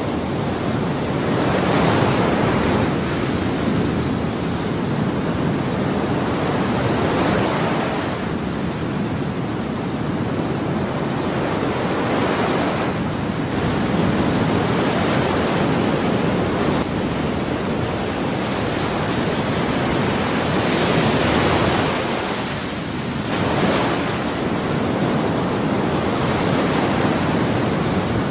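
Ocean surf: a continuous wash of waves, swelling and easing every few seconds as waves break.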